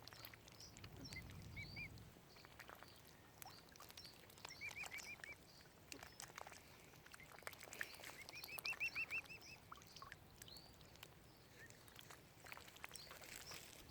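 Mute swan cygnets peeping: faint, short high notes in quick runs of several, repeated a few times.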